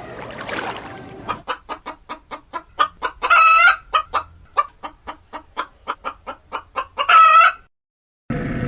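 Chicken clucking, a quick run of short clucks at about four a second, broken twice by a longer, louder drawn-out squawk, like a hen's cackle.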